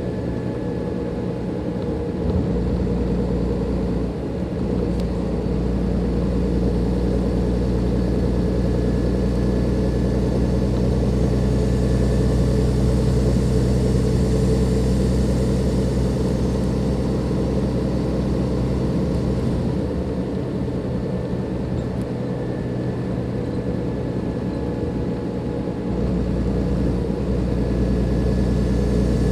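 Cummins ISLe 340 diesel engine of a Dennis Enviro 500 double-decker bus running under way, with a faint turbocharger whistle that comes and goes. The engine note swells about two seconds in, eases about twenty seconds in, and pulls harder again near the end.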